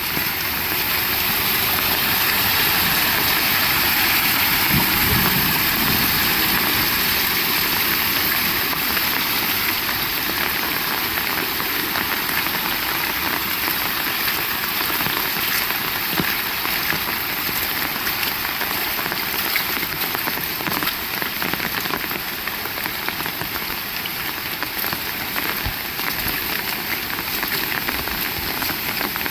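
Heavy rain falling steadily, a dense patter of countless drops, with a brief low rumble about five seconds in.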